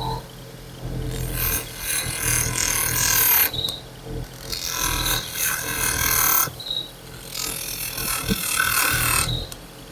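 A power tool grinding, in three bursts of about two seconds each that start and stop abruptly, with a hissing, scraping edge.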